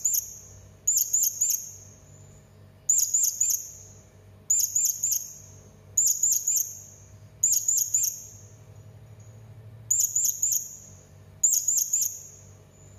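Serindit hanging parrot calling: short bursts of about four quick, very high-pitched chirping notes, repeated roughly every second and a half, with one longer pause about two-thirds of the way through.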